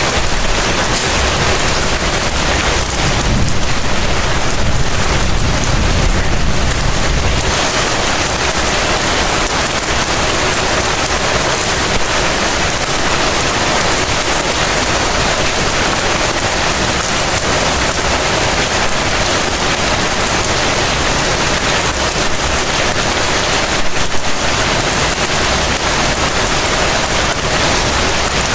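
Heavy rain falling steadily, a dense even hiss of drops with no let-up. A low rumble swells underneath a few seconds in and fades again, and there is one brief louder tick near the end.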